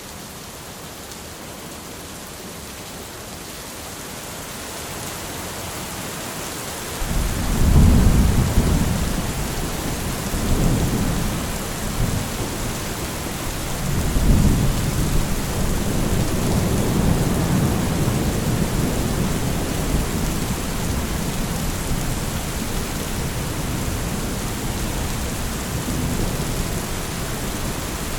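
Steady rain with a thunderclap about seven seconds in, its deep rumble rolling on in several swells and fading slowly under the rain.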